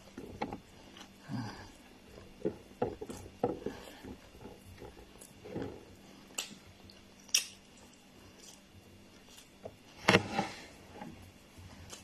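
Eating pounded yam: soft chewing and mouth sounds with scattered short clicks and knocks, two sharper clicks midway and a brief louder burst near the end.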